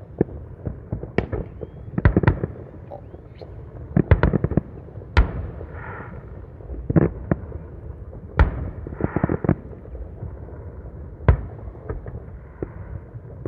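Aerial fireworks exploding, a dozen or so sharp bangs and booms at irregular intervals, with crackling bursts after a few of them.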